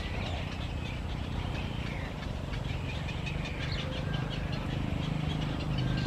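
Small birds chirping and calling in short, sliding notes over a steady low rumble.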